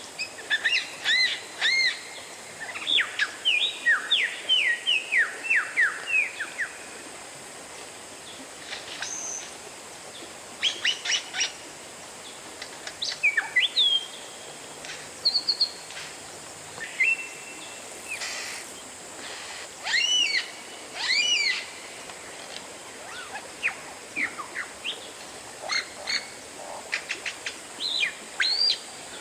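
Oriental magpie-robin (kacer) singing: bursts of quick, sweeping whistled notes and chirps broken by short pauses, over a faint steady hiss.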